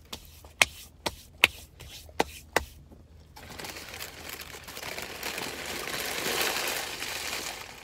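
Sharp wet clicks and smacks of a mouth chewing food, about seven in the first three seconds. Then a hiss or rustle swells up and fades away over the last four seconds.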